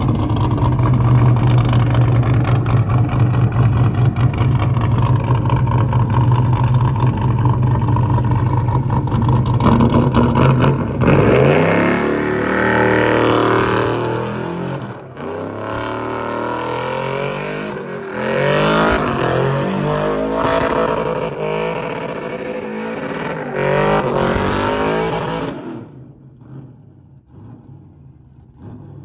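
Truck engine held at high, steady revs for about ten seconds, then revved up and down repeatedly, before the sound cuts off suddenly near the end.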